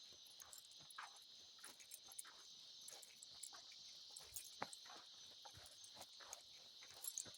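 Steady high-pitched insect chorus of the evening woods, with faint irregular ticks and crunches of footsteps on the forest floor.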